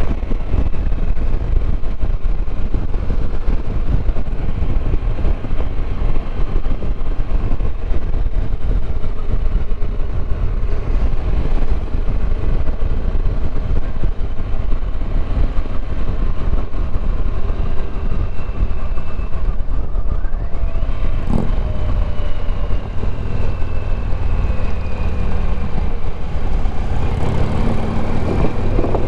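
Motorcycle running at road speed under a heavy, steady rumble of wind on the microphone. A faint engine pitch slowly rises and falls.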